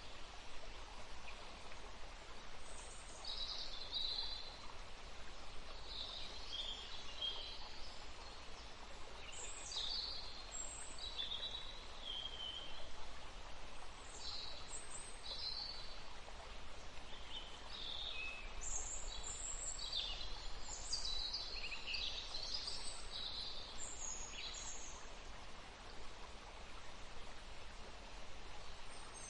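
Several songbirds chirping and singing over a soft steady background hiss. Short high calls come and go, busiest in the second half.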